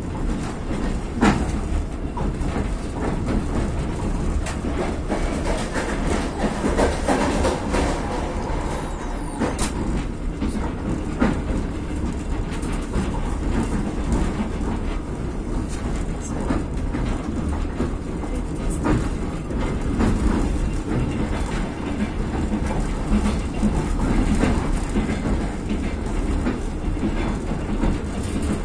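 Passenger train coach running along the track, heard from inside the coach: a steady rolling rumble with irregular clacks of the wheels over rail joints.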